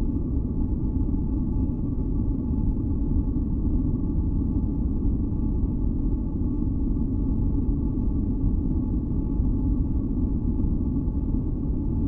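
Steady, deep masking noise, weighted heavily toward the low end like a rumble, with a few faint held tones sitting above it and no changes.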